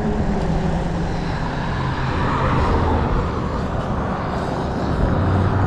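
Steady rushing noise while riding an e-bike, with the drone of a motor vehicle growing louder near the end.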